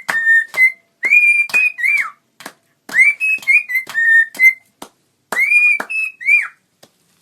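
Parrot whistling a short tune: four repeated phrases of clear whistled notes that swoop up into each phrase, with a few faint clicks in the pauses between.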